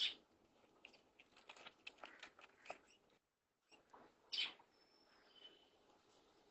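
A small pet bird giving short, sharp chirps, one at the start and another a little over four seconds in, with a faint thin whistle soon after and scattered soft ticks between. The sound drops to dead silence for about half a second just after three seconds in.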